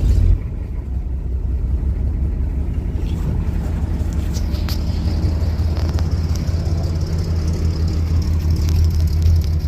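1969 Ford F100's 4.9-litre inline-six running steadily at idle through a new true dual exhaust with tailpipes: a steady low exhaust rumble.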